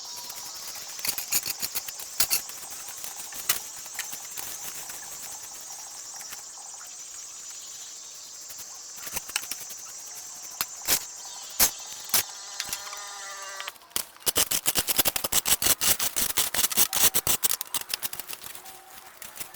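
Scattered sharp clicks and knocks over a steady high hiss, turning into a fast, loud clatter of knocks about fourteen seconds in.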